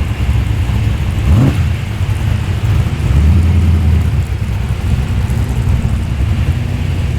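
Classic car engines rumbling at low speed as cars roll in, with one quick rising rev about a second and a half in.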